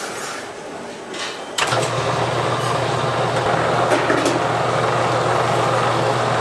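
A motorised machine switches on and runs with a steady hum and rush for about five seconds, then cuts off.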